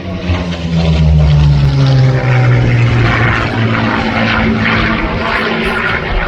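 Propeller aircraft's piston engine flying past, a loud steady drone whose pitch drops in the first couple of seconds as it goes by.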